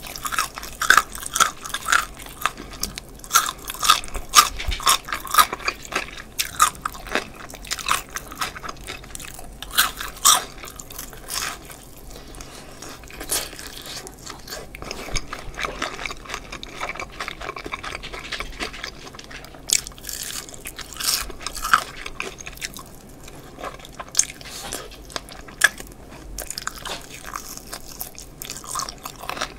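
Close-miked biting and chewing of crispy BBQ Golden Olive fried chicken drumsticks: the battered skin crackles in sharp crunches. The crunches come thick for about the first dozen seconds, then the chewing goes softer with scattered crunches.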